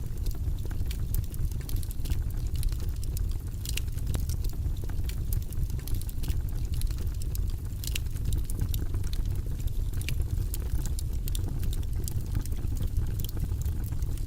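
Fire burning in a fireplace: a steady low rumble of the flames with frequent small crackles and pops.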